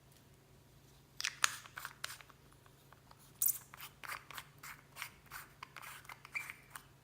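Clear slime mixed with beads and floam being squeezed and worked by hand, giving irregular crackles and pops that start about a second in.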